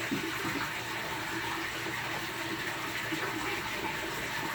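Water pouring steadily into a large aquarium, a continuous splashing rush.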